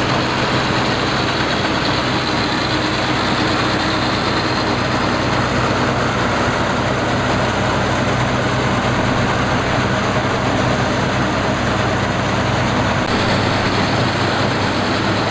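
Combine harvester running steadily, a continuous engine drone under dense machinery noise, shifting slightly near the end.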